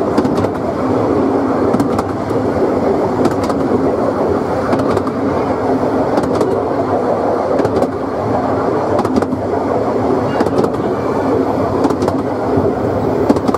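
Narrow-gauge steam train's carriage running along the track, heard from on board: a steady rumble of wheels on rails, with sharp clicks every second or so at uneven intervals.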